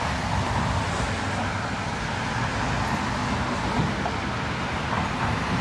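Steady road traffic noise with a low rumble and no distinct events.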